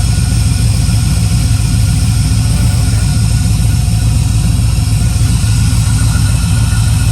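Pontiac Trans Am engine idling steadily with a loud, even low hum.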